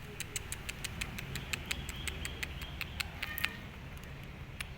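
Stray cats crunching dry cat food, a quick run of sharp crunches at about five or six a second that thins out after about three and a half seconds, with a brief high cat call a little past three seconds, over a steady low rumble.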